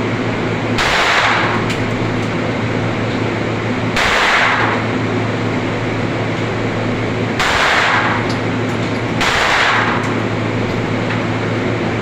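Four muffled gunshots at a shooting range, each a short burst: about a second in, at about four seconds, at about seven and a half seconds, and about nine seconds in. A steady low hum runs underneath.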